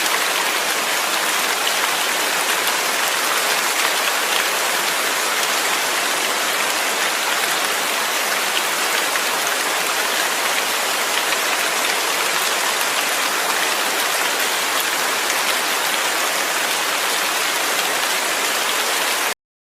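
Steady rainfall: a dense, even hiss with fine ticks of individual drops, cutting off suddenly near the end.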